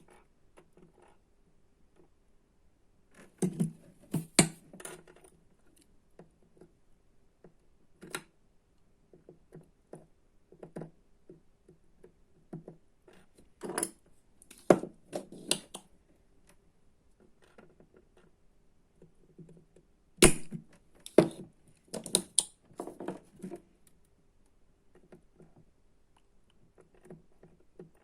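Irregular clicks, taps and short bouts of clatter from small hard objects being handled, in several clusters with pauses between, over a faint steady hum.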